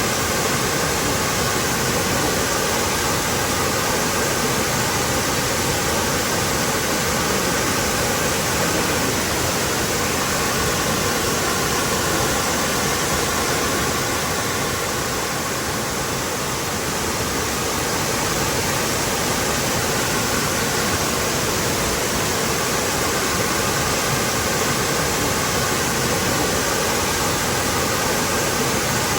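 Waterfall rushing and splashing steadily, a dense even roar of falling water with a slight dip in loudness about halfway through.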